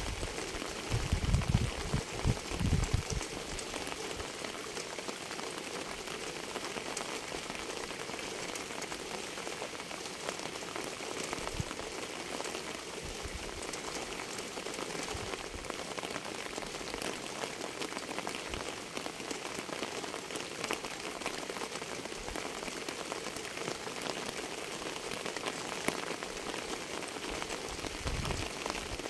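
Steady rain falling, an even hiss of many drops pattering on a surface. A few low thuds come about one to three seconds in and again near the end.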